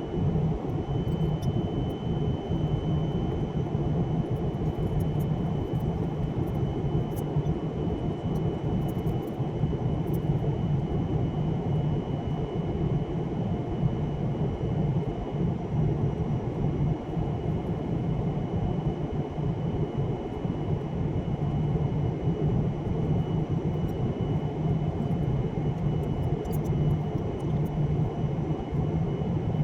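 Steady low hum of an airliner cabin, with a thin high whine that starts about a second in.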